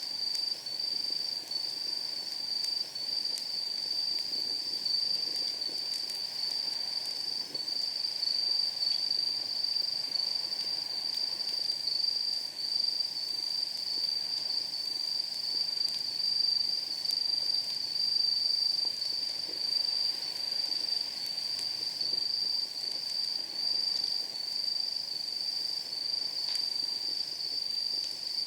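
Insects trilling steadily at night in one continuous high-pitched chorus. Burning firewood gives faint, scattered crackles and pops beneath it.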